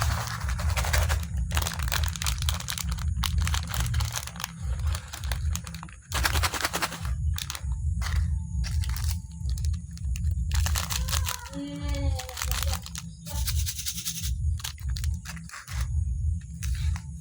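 Close-miked crinkling, crackling and tearing of a biscuit packet's plastic wrapper being opened, in repeated bursts of a second or so.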